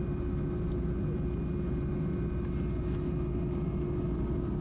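Steady low rumble of a jetfoil's gas-turbine engines, throttled back as the boat slows for port, with a steady hum over it.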